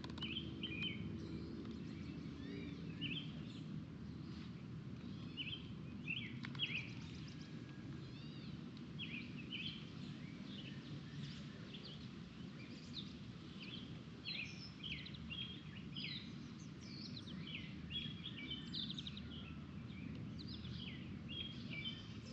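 Several birds chirping and calling, many short high notes scattered throughout, over a steady low background noise.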